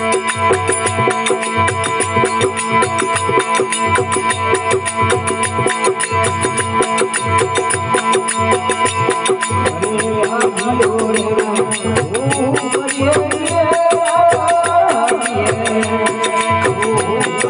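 Rajasthani devotional folk music played instrumentally: a steady drone, fast jingling cymbal strokes and a regular hand-drum beat. About ten seconds in, a wavering melody line comes in over them.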